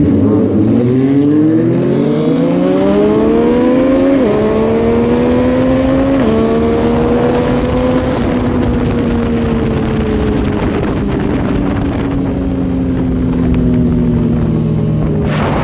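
Sport motorcycle engine accelerating hard through the gears, its pitch dropping at two quick upshifts, then holding speed and slowly easing off, the pitch falling gently toward the end.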